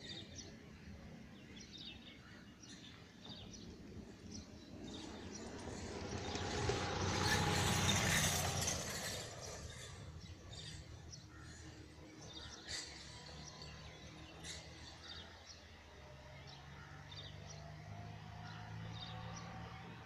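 Outdoor field ambience with scattered short bird chirps. A broad rushing noise swells up, peaks about eight seconds in, and fades over the next two seconds.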